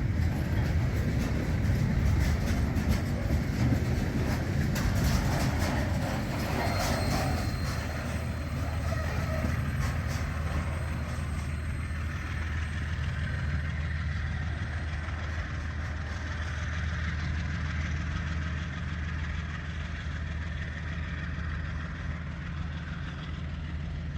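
Diesel train running with a steady low engine drone, its wheels clicking over the rails for the first ten seconds or so. The whole sound slowly fades as the train draws away.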